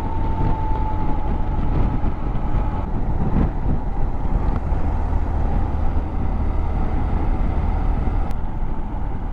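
Motorcycle riding at road speed, with a steady rumble of engine and wind noise on the rider's helmet microphone.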